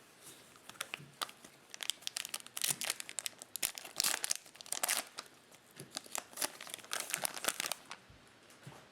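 Foil wrapper of a trading-card pack crinkling and tearing as it is opened, with many quick crackles that stop about 8 seconds in.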